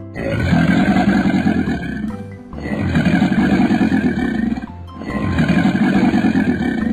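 Cartoon crocodile growl sound effect: three long, rough growls of about two seconds each, with short breaks between them.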